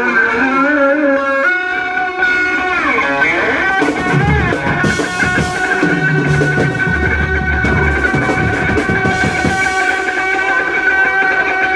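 Live noise-rock from a bass-and-drums duo: a heavily effected electric bass holds high, layered tones that slide in pitch in the first few seconds and then sustain, with low bass notes dropping in about four and seven seconds in, and light drums underneath.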